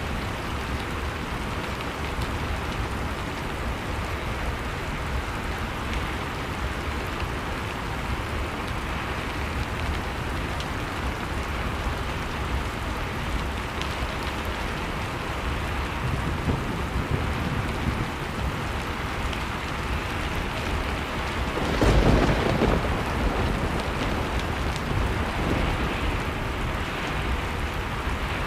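Blizzard wind and a crackling fireplace mixed as an ambience track: a steady rush of noise dotted with small crackles. A louder low rumble swells about three quarters of the way through.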